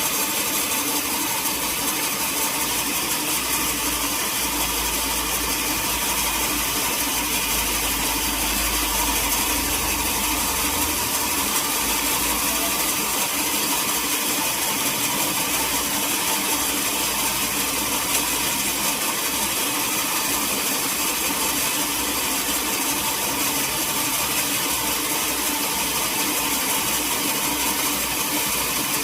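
Sawmill machinery running steadily, an engine-driven hum with a constant high hiss and a heavier low rumble for several seconds early on.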